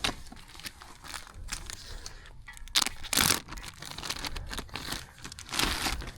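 Crinkly wrapping being crumpled and torn, irregular rustling with louder scrunches about three seconds in and again near the end.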